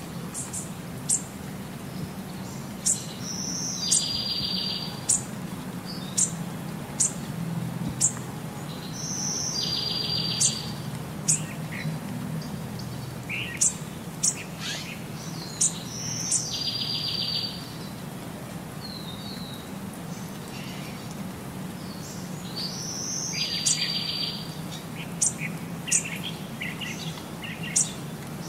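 Small songbirds chirping, with sharp high chirps and a short buzzy trill, the same sequence repeating about every seven seconds over a steady low hum.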